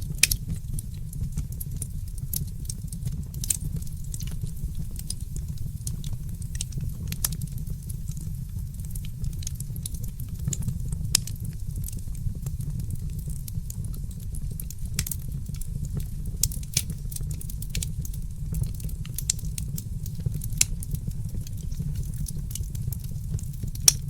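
Wood fire crackling in a fireplace: irregular sharp pops and snaps over a steady low rumble, with a louder pop just after the start and another near the end.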